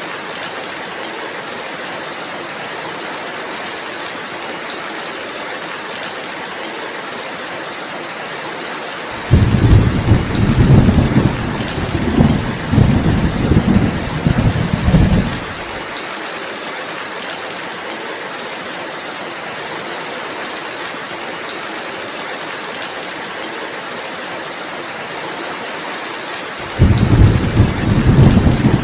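Steady rainfall, a constant hiss, broken by two rolls of thunder. A loud low rumble comes in about nine seconds in and rolls on in several surges for some six seconds, and another starts near the end.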